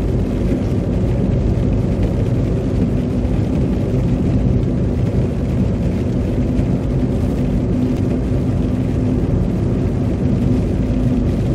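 Steady low rumble of car road and engine noise heard inside the cabin while driving at about 60 km/h on a wet, slushy road.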